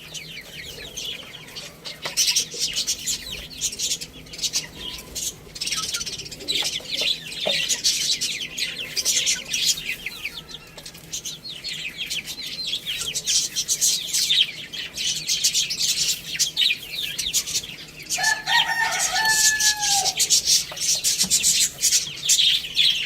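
A flock of budgerigars chattering and chirping continuously. About eighteen seconds in, a rooster gives one crow lasting about two seconds that drops in pitch at the end.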